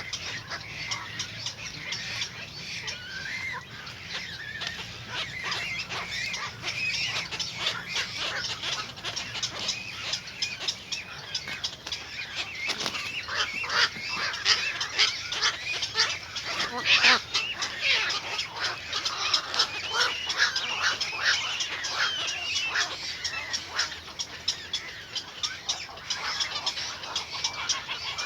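Birds chirping and calling, many short, rapid calls close together, a little louder around the middle.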